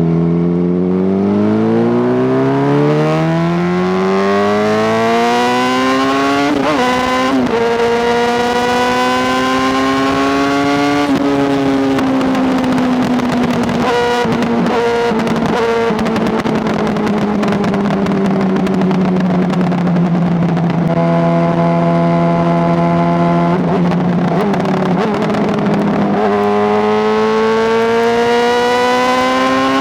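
Honda CBR600RR's inline-four engine running under way and pulling through the gears. The revs climb for several seconds and break at a gear change about seven seconds in, then climb again. The revs fall slowly for a long stretch, and rise again near the end.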